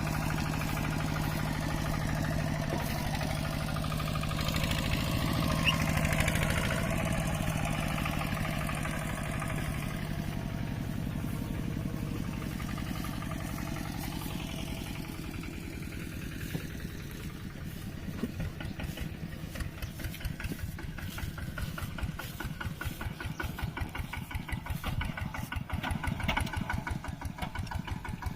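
Mini tractor engine running: a steady hum in the first half, then a slower, even chugging beat from a little past the middle.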